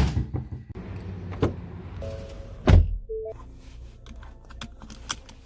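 A sharp thunk, then further knocks about a second and a half in and just under three seconds in, with a few short steady tones between them and faint music underneath.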